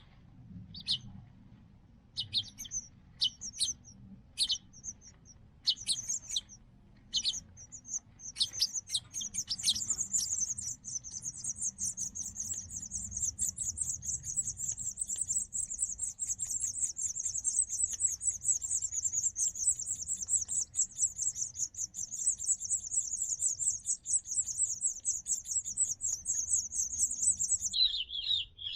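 House finch nestlings chirping: scattered short, high calls at first, then from about a third of the way in a fast, continuous stream of high begging chirps as the young are fed, changing to lower chirps near the end.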